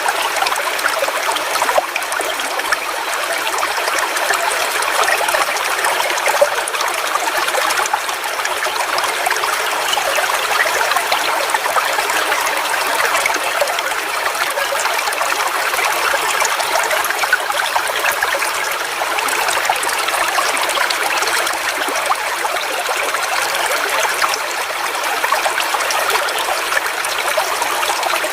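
Forest waterfall: water splashing and flowing steadily, a bright, even rush with little low rumble.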